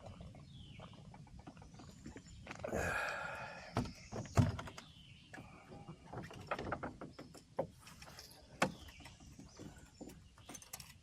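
Scattered knocks and clicks of fishing gear being handled in a small boat, with a brief rushing noise about three seconds in and a sharp thump about four and a half seconds in.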